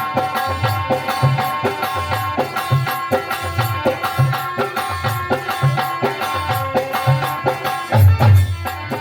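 Instrumental interlude of a Hindi folk song: held melody tones over a steady hand-drum rhythm, with a heavier drum stroke near the end.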